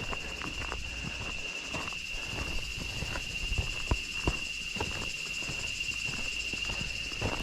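Steady, high-pitched drone of jungle insects, with irregular footsteps on a trail underneath.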